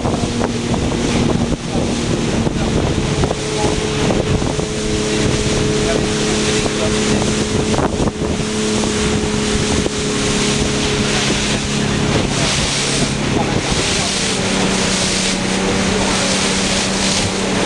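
Motorboat engine running steadily under way, its note shifting slightly a few times, with the rush of water along the hull and wind buffeting the microphone.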